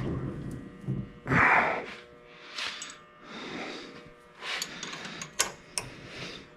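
Hand tools and metal parts being handled at close range: scattered clicks, taps and scrapes, with a louder short rush of noise about a second and a half in and two sharp clicks near the end.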